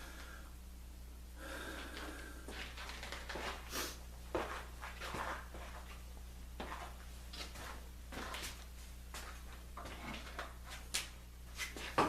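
Clamps and wood being handled while a glued lamination is clamped up: scattered light knocks, clicks and rubbing, with a few sharper knocks near the end.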